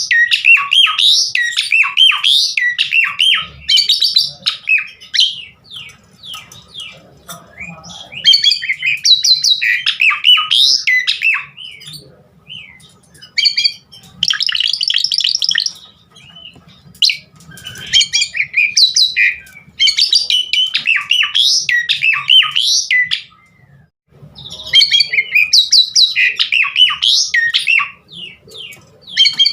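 Asian pied starling (jalak suren) in full song: phrase after phrase of rapid, varied whistles, chatters and harsh notes, with brief pauses between bursts. The song is laced with mimicked calls of other birds.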